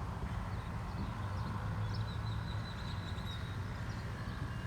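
Steady low hum throughout, with faint bird chirps and a short thin whistling call in the middle.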